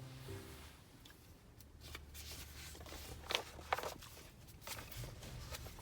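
Small handling noises in a small room: scattered soft clicks and rustles, a few sharper ticks about three and a half seconds in, over a steady low hum. The last notes of a piano-led tune fade out at the very start.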